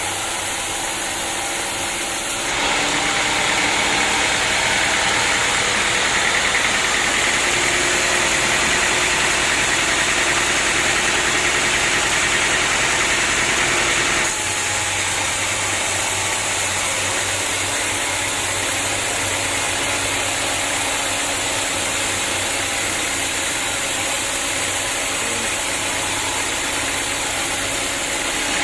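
Sawmill machinery running steadily while cutting acacia wood. It grows louder and brighter about two and a half seconds in and drops back a little about halfway through.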